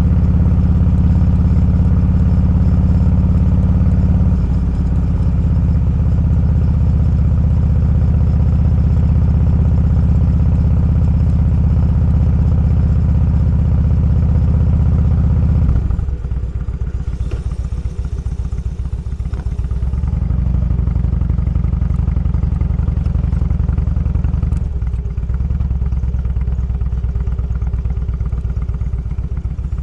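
Motorcycle engine running under way, holding a steady note, then easing off about sixteen seconds in and picking up again a few seconds later.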